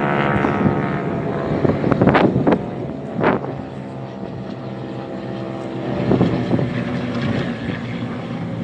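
Propeller airplanes flying over, their engines droning steadily with a slight swell and fade as they pass.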